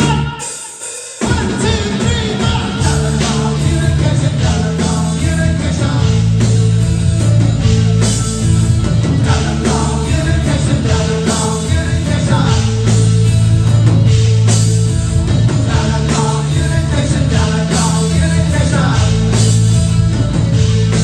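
Live rock band playing a new wave song loudly, with drums and steady bass; after a brief drop at the start, the full band comes back in sharply about a second in.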